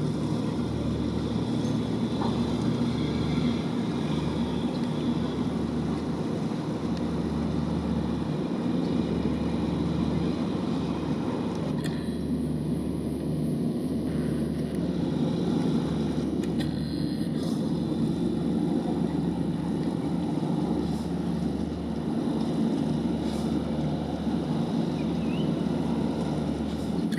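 Steady low drone of a boat's engine running at a constant speed, with a few faint clicks over it.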